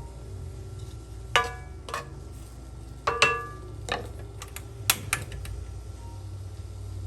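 A utensil knocking and clinking against a metal pan while chicken is stirred as it fries: a handful of sharp ringing strikes, the loudest about a second and a half and three seconds in, over a steady low hum.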